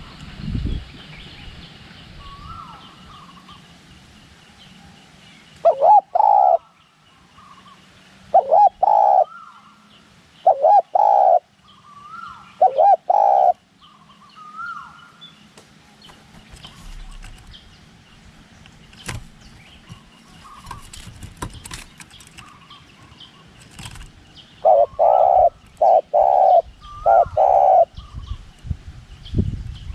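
Spotted dove cooing: loud phrases of deep coo notes, given four times in the first half and as a longer run of several coos near the end. Fainter, higher bird calls come between the phrases, and low wind rumble is heard at the start and end.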